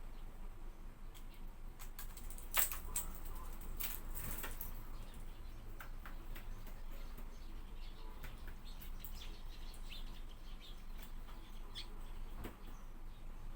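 Hawfinch making scattered short, sharp clicks and chirps; the loudest comes about two and a half seconds in.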